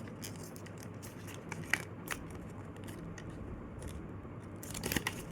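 A sheet of paper being folded and creased by hand: soft rustling with a few sharp crinkling ticks, and a brief crackle near the end.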